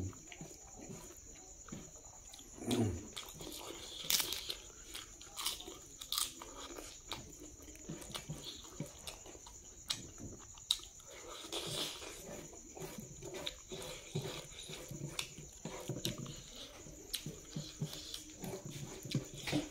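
Close-up chewing, smacking and crunching as Naga pork and rice are eaten by hand, in irregular bites with a few louder crunches. A steady high tone runs underneath.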